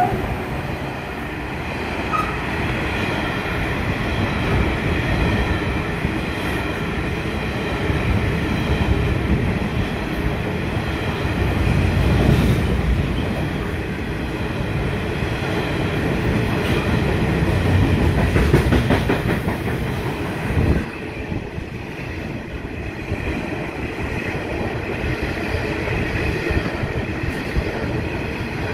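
Freight train of covered hopper wagons rolling past close by: a steady rumble of steel wheels on rail, with stretches of rapid wheel clicking over the rail joints.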